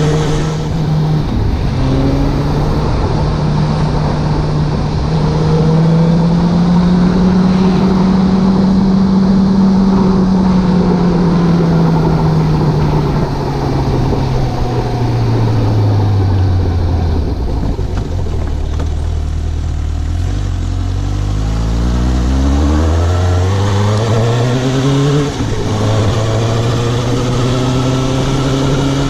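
Suzuki GSX750 motorcycle's four-cylinder engine under way: it pulls up in pitch and holds, winds down low as the bike slows, then accelerates hard. The pitch drops sharply at a gear change, after which it runs steadily at cruising speed.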